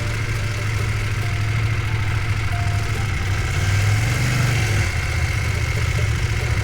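An engine idling steadily, a continuous low hum that swells slightly about four seconds in.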